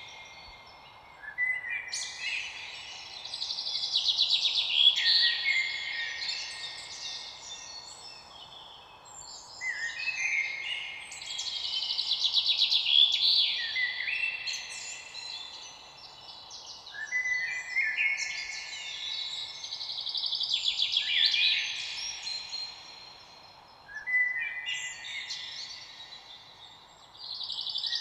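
Songbird singing in long, complex phrases of chirps and rapid trills, each lasting several seconds and repeating about every seven seconds, over a faint steady background hiss.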